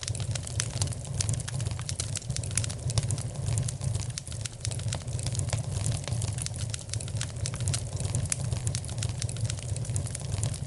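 Wood fire crackling in a fireplace: a dense run of irregular sharp pops and snaps over a steady low rumble.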